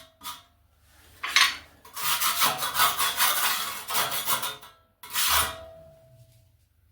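Steel trowel scraping tile adhesive while spreading it onto a wall: a few short strokes, then a long run of scraping strokes, and a last stroke about five seconds in with a brief metallic ring.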